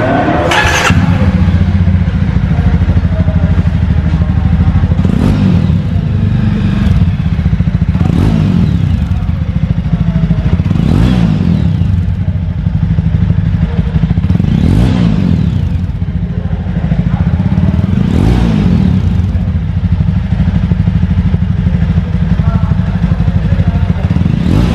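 Jawa Classic's single-cylinder engine idling through its exhaust, with the throttle blipped about every three to four seconds so the note briefly rises and falls.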